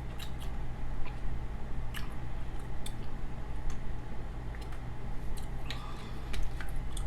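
Close-miked chewing of pot roast: scattered wet mouth clicks and smacks, a few to a second, over a steady low hum.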